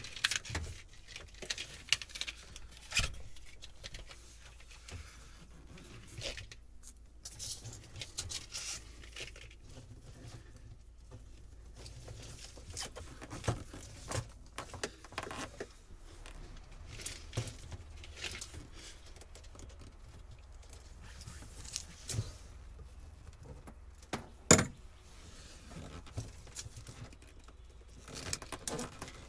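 Old boat wiring and its fittings being handled and pulled loose: rustling and crinkling of wire and plastic with scattered clicks and knocks, the loudest a sharp knock near the end.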